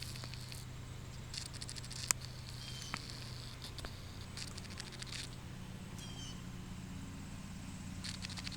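Small birds chirping, with short high chirps, brief downward-sliding squeaks and quick clicky trills, over a steady low hum.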